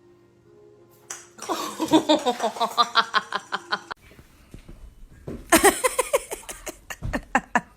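A young child laughing in two bouts of rapid, rhythmic giggles, the first starting about a second and a half in and the second about five and a half seconds in.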